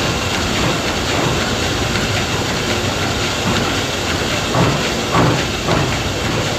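Combine harvester running steadily while cutting and threshing paddy: a dense, continuous machine rumble and clatter, with a few brief louder surges late on.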